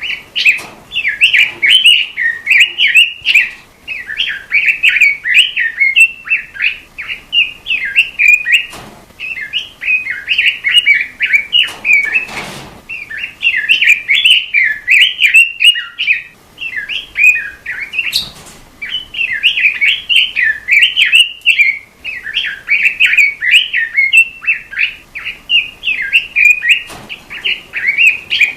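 A robin singing nearly without pause: rapid chattering runs of high twittering notes in phrases of a few seconds, separated by brief gaps.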